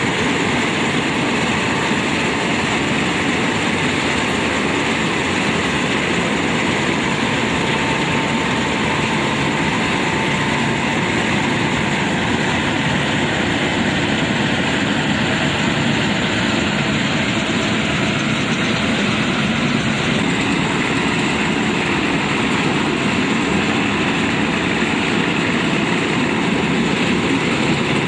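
Shamsher 4WD combine harvester running steadily, engine and machinery at an even, loud level.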